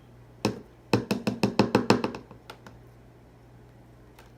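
A single knock, then a quick, even run of about a dozen light knocks at roughly eight a second, and two faint clicks after.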